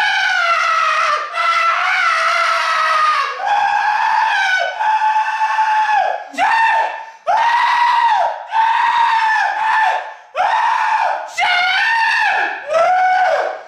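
A man screaming over and over: a rapid string of loud, high-pitched held screams, each about a second long, with short breaks between them, some rising or falling in pitch.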